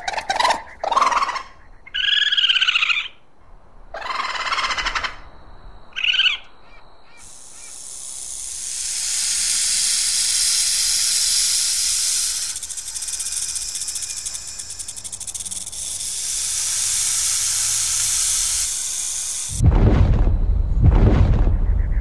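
Common (harbor) seal calls: several short cries over the first seven seconds, some rising and falling in pitch. Then a boa constrictor hisses, one long steady hiss lasting about twelve seconds. Near the end a loud, deep dinosaur sound effect begins.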